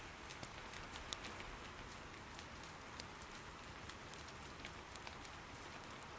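Soft steady rain patter with scattered sharp clicks and a few louder pops, the crackle of firewood burning in an irori hearth.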